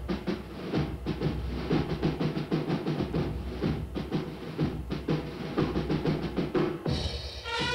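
Background music at a drum break: rapid drum strokes, snare and bass drum, with no melody. Pitched instruments, likely brass, come back in about seven seconds in.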